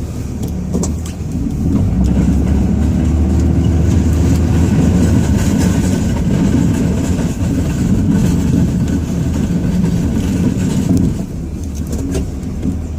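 Ram 2500's Cummins inline-six diesel engine heard from inside the cab, revving up and down while the truck plows. It gets louder about a second and a half in and eases off a couple of seconds before the end.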